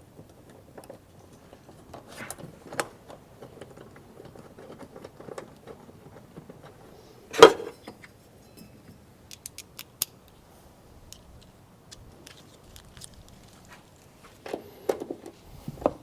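Scattered light metallic clicks and knocks of a hand tool and fastener as the Torx bolt of a rear cargo tie-down point is worked back in, with one louder knock about seven and a half seconds in and a quick run of sharp clicks a couple of seconds later.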